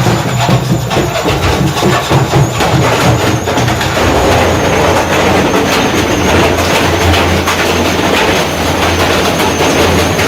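Washing machine running flat out with a heavy stone inside, clattering and banging. Dense knocks come first, then after about four seconds it settles into a steady loud rattling rumble with a low hum.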